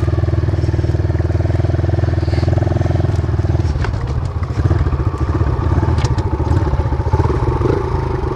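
Dirt bike engine running at idle, its note changing about four seconds in.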